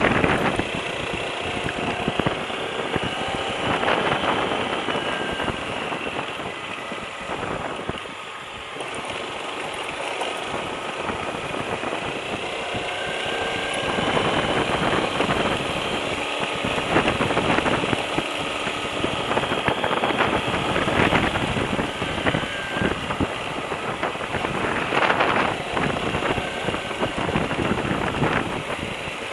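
Lifan KPT200 motorcycle's single-cylinder engine running, its pitch rising and falling slowly at times.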